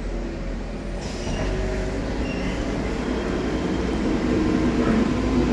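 A truck driving by, its engine running and growing gradually louder as it approaches.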